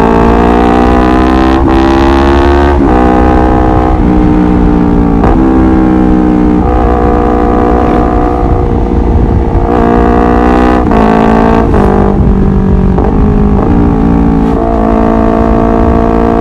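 Honda CBR250RR motorcycle engine running hard. Its note climbs in pitch and then breaks and drops, over and over every second or two, as if the bike is revving and shifting.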